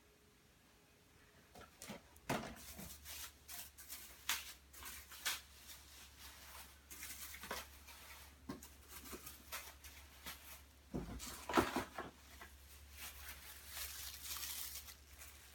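Firework packs being handled: irregular rustling and light clicks and knocks of packaging, with a louder knock about eleven seconds in.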